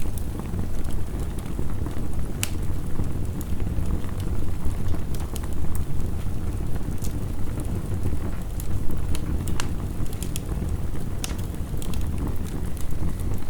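Crackling fire: irregular sharp pops and snaps of burning wood over a steady low rumble of heavy rain.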